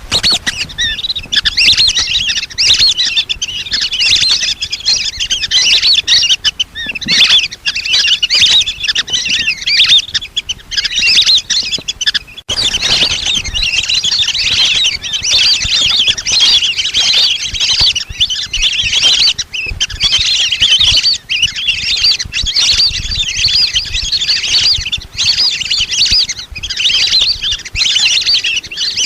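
A flock of lesser whistling ducks calling: a dense, unbroken chorus of high-pitched whistles and chirps, the kind of recording played as a lure to draw the ducks in. It breaks off for an instant about twelve seconds in.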